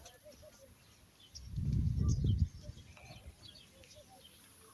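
Small birds chirping and calling, short high chirps repeating throughout. About a second and a half in, a low rumbling burst lasts about a second and covers them.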